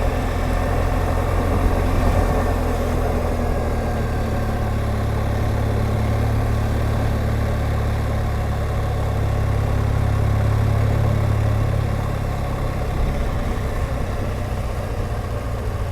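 BMW R1200GSA's boxer-twin engine running steadily while the bike is ridden along, a deep drone that swells a little about two-thirds of the way through and then eases off.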